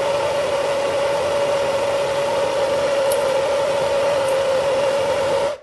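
Handheld electric hot-air blower running steadily with a steady whine, heating a removed small-engine spark plug. It stops abruptly near the end.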